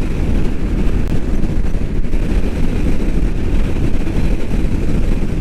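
Steady, deep wind rush and engine and road noise from a Royal Enfield Meteor 350 motorcycle cruising at highway speed, the wind buffeting the rider's microphone.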